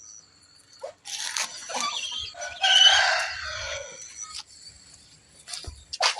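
Chickens calling: a loud drawn-out call lasting over a second, beginning about two and a half seconds in and falling in pitch at its end, among shorter clucks.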